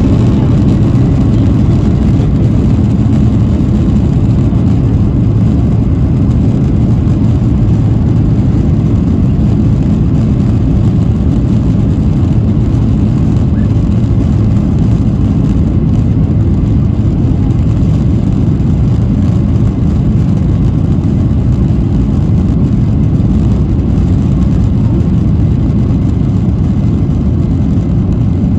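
Steady, loud rumble of a Boeing 737-800's CFM56-7B turbofan engines and rushing air, heard inside the passenger cabin.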